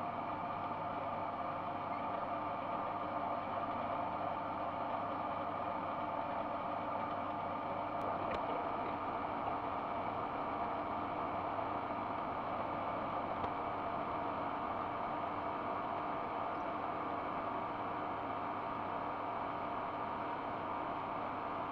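Metal lathe running steadily: an even motor and gear whir with several held tones. A faint tick comes about eight seconds in.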